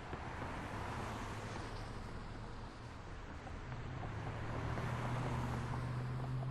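City street traffic noise: a steady wash of passing cars, with a low engine drone that grows louder from a little past halfway, as a heavier vehicle draws close.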